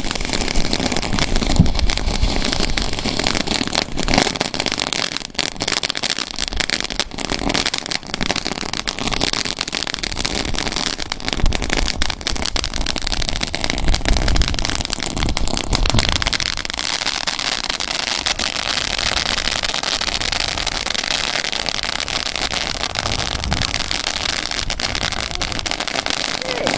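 Consumer ground firework going off, a continuous dense crackling and hissing that grows steadier and smoother over the second half.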